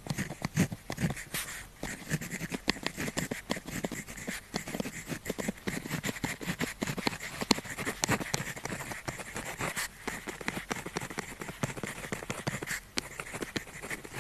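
Pen tip scratching on paper in quick, irregular strokes and taps, as in handwriting.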